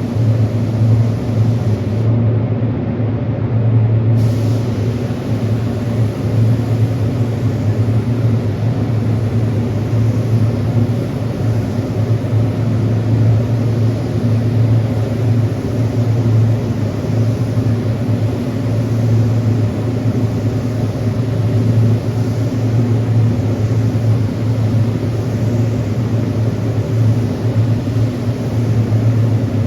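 Air spray gun hissing steadily as a heavy coat of paint is sprayed, over a constant low machine hum. The hiss stops for about two seconds shortly after the start, then resumes.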